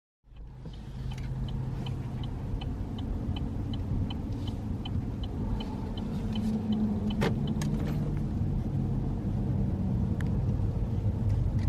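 Car driving, heard from inside the cabin: steady low engine and road rumble that builds slightly as it pulls away. A fast, light regular ticking, about three a second, runs through the first half and stops, and there is a single sharp click about seven seconds in.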